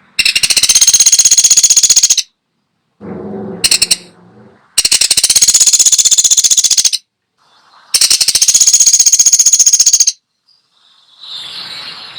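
Pelatuk sampit woodpecker calling: three long, rapid rattling trills of about two seconds each, high-pitched. A softer, lower sound comes between the first two, and a faint one near the end.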